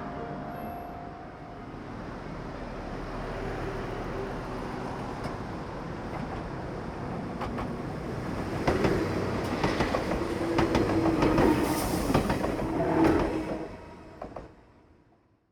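A train passing on rails: a steady rumble builds, then wheels clatter over the rail joints for several seconds about halfway through, and the sound fades away near the end.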